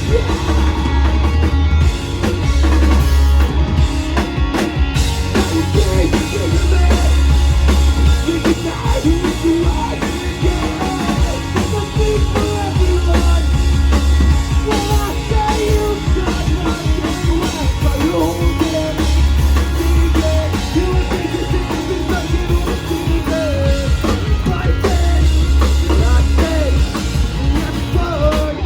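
A live rock band playing loud: drum kit, electric guitars and bass, with a wavering melodic line over the top and heavy low bass notes coming back every few seconds.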